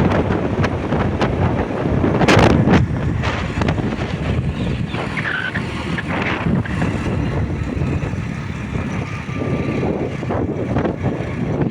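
Motorbike on the move: engine and road noise, with wind rushing over the microphone and a few knocks, the loudest about two and a half seconds in.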